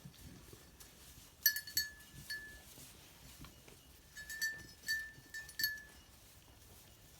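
A small bell on a sheep's collar ringing as the animal moves, in two short jingling bouts: three strikes, then a pause, then five more. Faint rustling of the animals in hay underneath.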